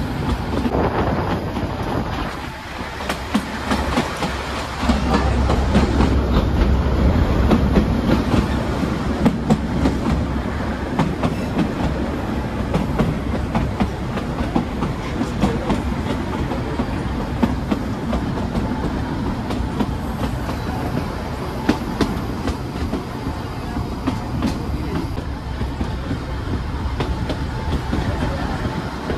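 Kangra Valley Railway 2 ft 6 in narrow-gauge train running, heard from an open coach window: a steady rumble of wheels on track with the clickety-clack of rail joints. It dips briefly a few seconds in, then runs louder for a few seconds.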